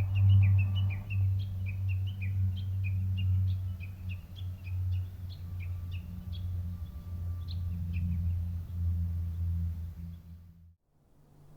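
Small birds chirping in quick, repeated short notes, thinning out after about seven seconds, over a loud steady low hum. The hum cuts off suddenly near the end.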